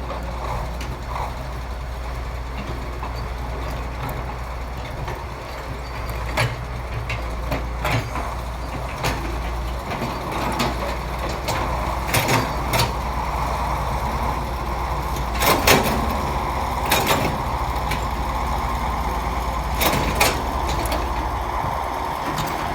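Heavy diesel earthmoving machinery, excavators and dump trucks, running steadily. Sharp knocks come every few seconds, a few in quick pairs.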